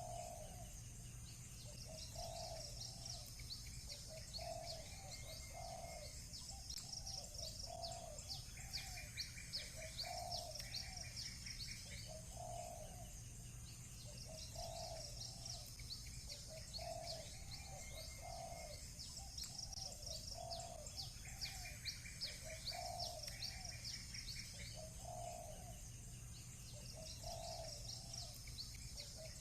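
Doves cooing over and over, about one coo a second, over a dense chorus of high chirping small birds with now and then a short burst of fast trilled notes. A steady low hum sits underneath.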